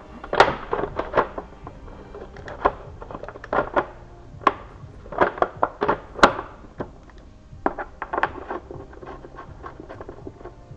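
Irregular clinks and knocks of hand tools and metal parts being handled, coming in quick clusters.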